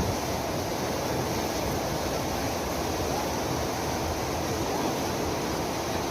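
Steady rushing of a swollen river in flood, floodwater pouring past with no break.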